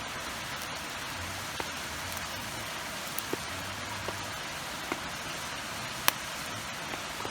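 Steady rain hiss, with a handful of short sharp pops scattered through it; the loudest comes about six seconds in.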